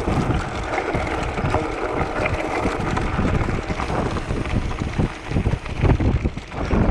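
Wind buffeting the microphone while a mountain bike rolls over loose crushed-stone gravel, with the tyres crunching and the bike rattling in many small knocks.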